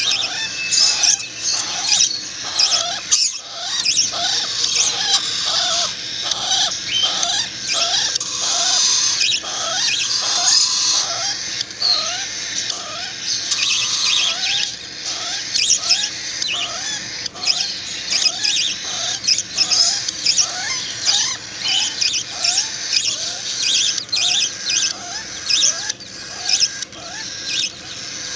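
Several nestling birds begging for food with high-pitched cheeping that never lets up, while a short curling call repeats about twice a second beneath it.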